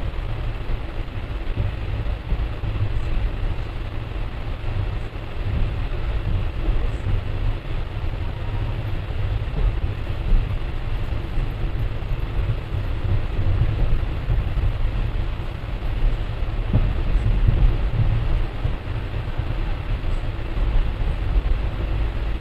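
Train running along the track, heard from on board a passenger coach: a steady, heavy rumble of wheels and coach with an even running noise over it.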